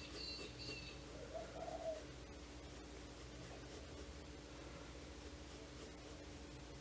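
Faint pencil strokes scratching on sketchbook paper over a steady low hum. A short high bird chirp sounds at the start, and a brief low coo-like call about one and a half seconds in.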